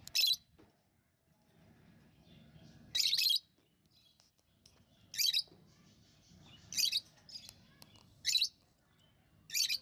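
Pet lovebird calling: about six short, high-pitched chirps spaced a second or two apart, with fainter chatter between them.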